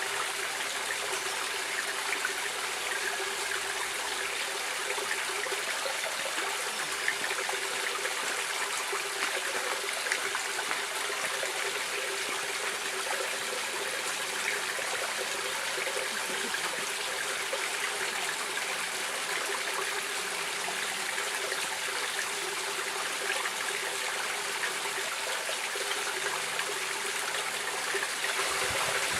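A stream of water running steadily over rocks, a continuous rushing and trickling with small splashes throughout.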